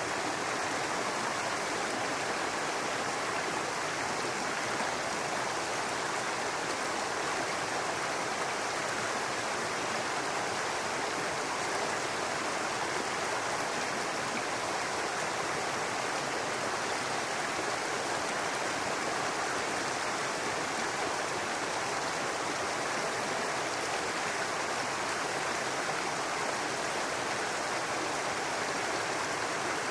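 Brook babbling: a steady, unbroken rush of running water.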